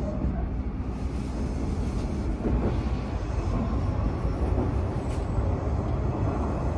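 A Hanshin Railway local train running over a steel truss bridge, heard from just behind the driver's cab: a steady low rumble of wheels on rails.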